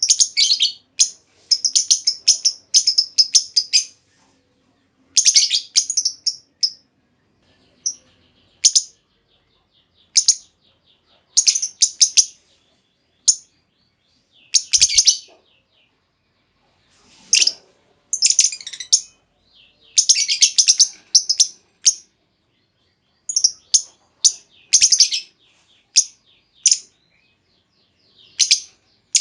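Female lovebird giving shrill, rapid chattering chirps in short bursts of about a second, separated by brief pauses.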